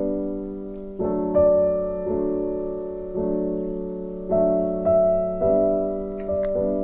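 Slow piano music: chords struck roughly once a second, each ringing and fading before the next.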